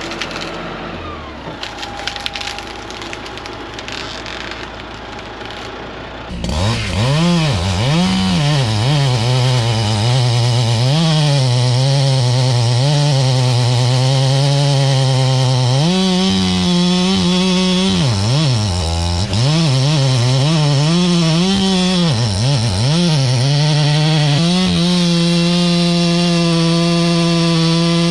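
Wood snapping and crackling for the first few seconds, then a two-stroke chainsaw starts up about six seconds in. It is revved up and down repeatedly, then runs at a steady high throttle with a couple of brief dips.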